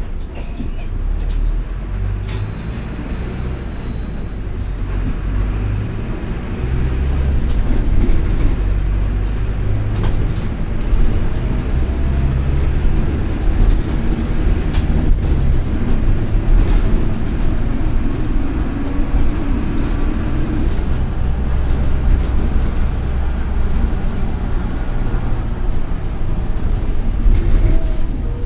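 Mercedes-Benz OF-1722M bus's turbodiesel engine running under way, a steady low rumble that grows louder after about seven seconds as it pulls. Occasional sharp clicks and rattles are heard, and there is a faint high turbo whistle near the end.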